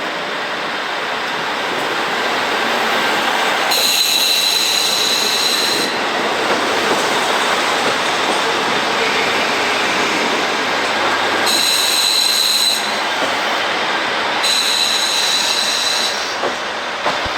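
A train moving slowly through the station, its steel wheels squealing against the rails in three spells of high-pitched squeal over a steady rolling rumble.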